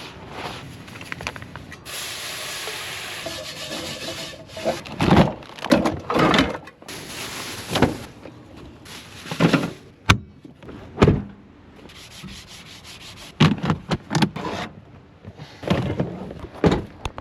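Clean-up after cooking: rubbing and scrubbing strokes of wiping down gear, with a steady hiss about two seconds in and several sharp knocks and clatters as things are handled and put away.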